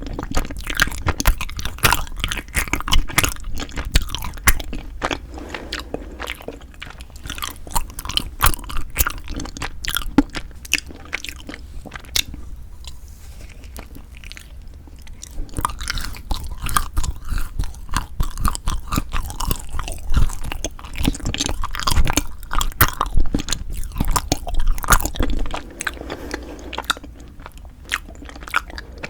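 Close-miked mouth sounds of eating Kiri cream cheese and frozen ice rice cake: steady chewing with crunchy, crackling bites. The chewing eases off for a few seconds around the middle, then picks up again.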